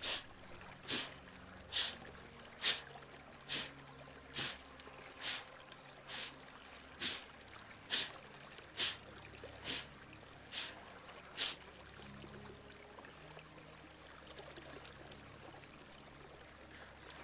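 Sharp, forceful pranayama exhalations through the right nostril, fourteen puffs at a steady pace of about one a second, stopping about two-thirds of the way through. A small stream trickles faintly underneath.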